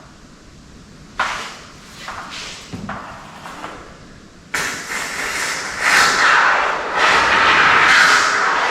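A few light knocks, then, about halfway through, a sudden loud hiss that carries on with small swells: expanding spray foam spurting from its can into the gaps along a bottom plate.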